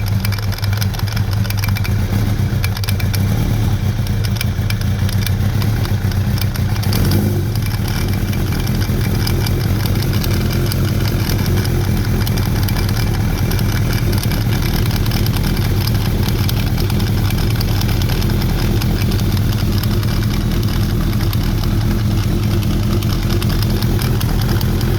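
Kawasaki ZRX1100 motorcycle's inline-four engine idling steadily, with one brief change in its note about seven seconds in.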